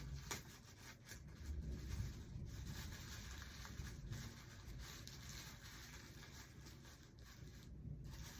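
Faint rustling and rubbing handling sounds with a few light clicks and knocks, as items are folded and wrapped for packing.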